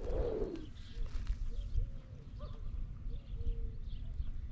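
A bird calling with short, low notes, repeated many times, over a steady low rumble.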